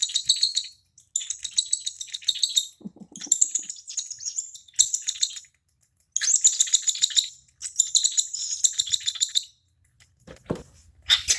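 Baby cockatiel chick giving its rapid, raspy begging call in repeated bursts of one to two seconds, the hungry food-begging call of a chick being hand-fed.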